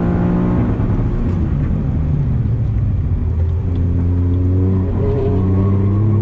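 Toyota GR Yaris's 1.6-litre turbocharged three-cylinder engine heard from inside the cabin: at full throttle near 7,000 rpm at first, its note falls within the first second or two as the car brakes hard for a corner. It then climbs again in the last few seconds as the throttle goes back on.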